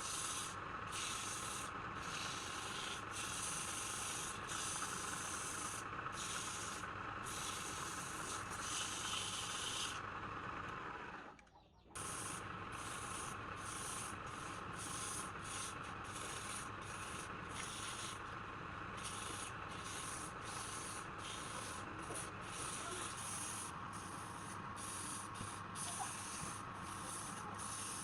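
Sandpaper rubbing on a turned wooden piece, a steady hissing scrape over a constant machine hum. The high hiss keeps breaking off for moments, and the whole sound drops out for about a second near the middle.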